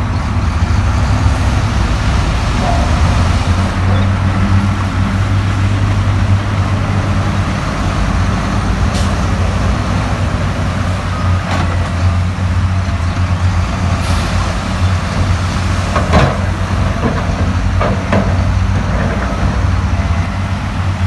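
Heavy diesel earthmoving machine running steadily under load, a deep constant engine hum, with several sharp clanks and knocks, the loudest about two-thirds of the way through.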